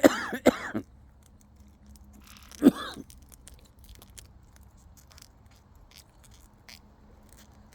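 Kākāriki parakeets foraging on the ground: many small, scattered crunching clicks of seeds being husked. Two short, loud pitched calls cut in, one at the very start and one just under three seconds in.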